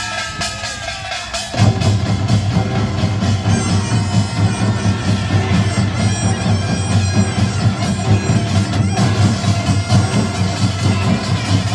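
Korean nongak (farmers' band music), Gyeongsang-do style: a nasal taepyeongso shawm plays over the percussion. About a second and a half in, the full band of gongs and drums comes in loudly and keeps up a dense beat.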